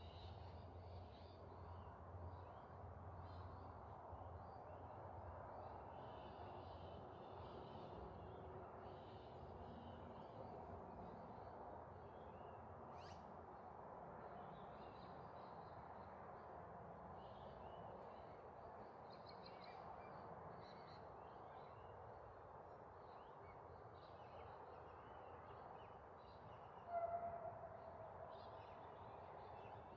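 Faint outdoor ambience of small birds chirping on and off over a steady low background hum, with one louder, short pitched call near the end.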